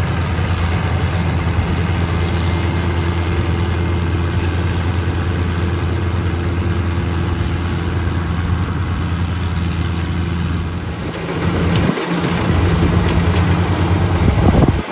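Diesel engine of a World Star WS7.0 combine harvester running with a steady low hum. About eleven seconds in, the steady hum drops away and a louder, noisier machine sound with faint rattles takes over.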